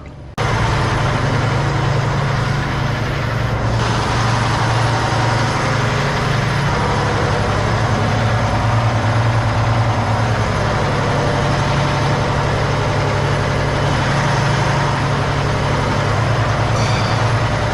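Semi truck's diesel engine idling steadily. It comes in abruptly about half a second in and runs at an even low pitch without revving.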